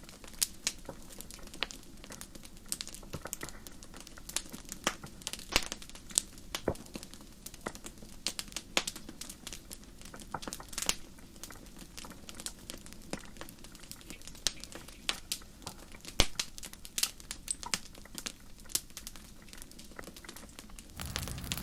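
Wood campfire crackling: irregular sharp snaps and pops from the burning logs, several a second, over a faint low hiss.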